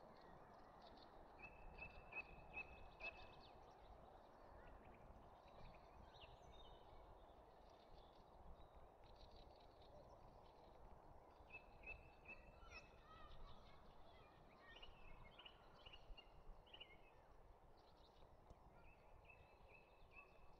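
Faint songbirds singing: several short runs of quick, repeated high notes and scattered chirps, over a low, steady background noise.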